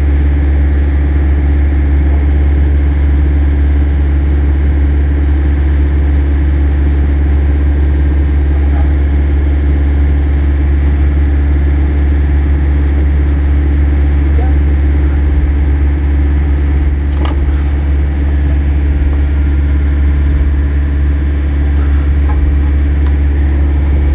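Diesel truck engine idling steadily: a deep, even hum.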